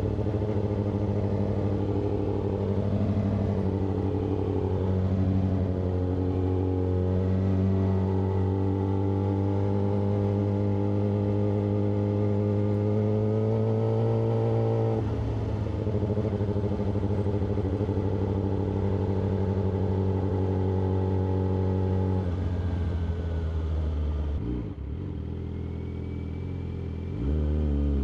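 Yamaha R6's inline-four engine running at steady road revs while riding. The engine note drops about halfway through and again later as the bike slows, then climbs again near the end as the throttle opens.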